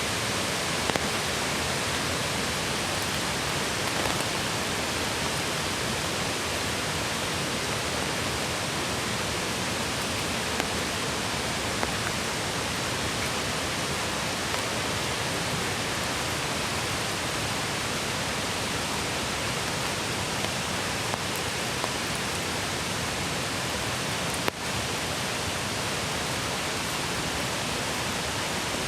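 Steady rushing water of a mountain stream, an even hiss, with a few faint ticks and one sharp click late on.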